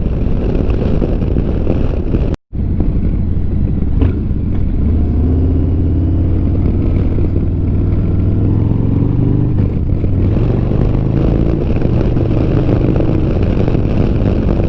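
Motorcycle engine running while riding, over wind noise on the helmet microphone; the engine pitch rises through the middle as it accelerates. The sound drops out completely for an instant about two and a half seconds in.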